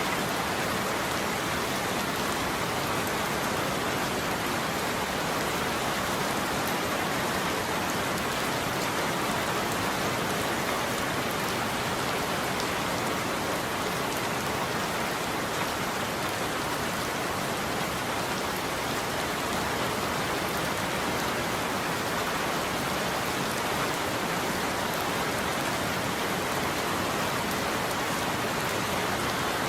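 Steady rain falling on a roof, an even unbroken hiss of drops with no thunder.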